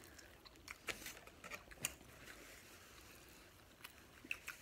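Faint crunching and small mouth clicks of someone chewing a fried chicken sandwich, coming in scattered bunches.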